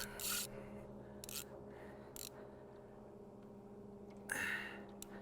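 A steady low hum with a few short hissing bursts, the loudest about four seconds in.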